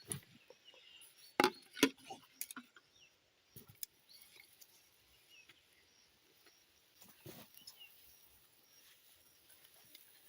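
Irregular light knocks and rustles, the loudest two close together about a second and a half in and another about seven seconds in.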